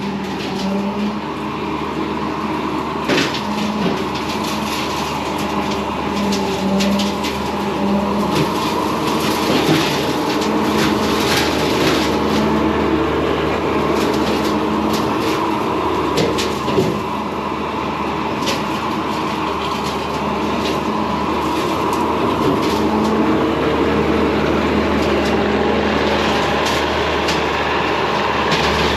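Bobcat T595 skid steer's diesel engine running steadily under load while the hydraulically driven vertical brush-hog blade spins, with repeated sharp cracks and knocks as it hits and cuts branches.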